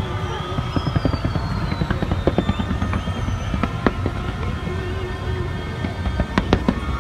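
Skyscraper fireworks display going off in rapid succession: a dense run of bangs and crackles over a steady low rumble, with a few louder sharp cracks about six and a half seconds in.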